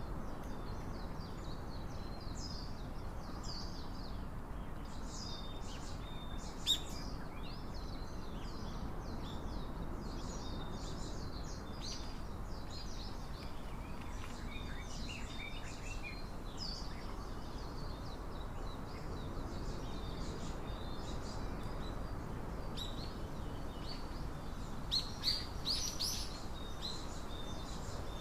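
Small songbirds chirping and calling in quick short notes, again and again, with a cluster of louder chirps near the end, over a steady background hiss.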